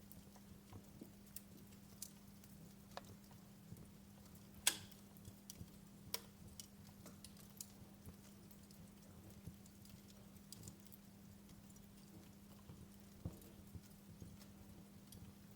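Wood fire in a fireplace crackling: irregular sharp pops and snaps, the loudest about five seconds in, over a faint steady low hum.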